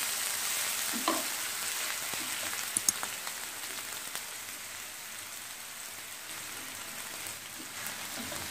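Chopped onion sizzling in hot cooking oil in a pan, a steady hiss that slowly fades. A few short clicks are heard about a second in and again near three seconds.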